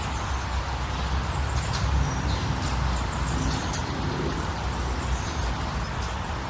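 Small birds chirping in short, high calls over a steady, deep rushing ambience of moving water or wind.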